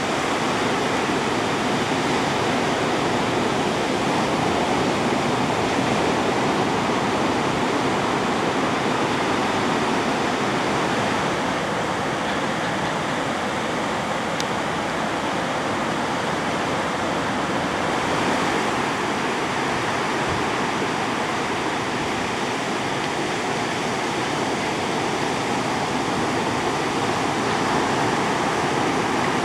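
Ocean surf breaking on a beach, heard as a steady, continuous wash of noise with no distinct single wave breaks.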